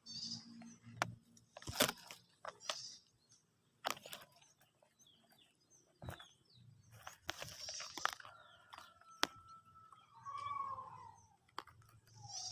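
Leaves and twigs rustling and snapping in short, irregular bursts, with a few sharp clicks, and a held whistled bird call about two-thirds of the way through.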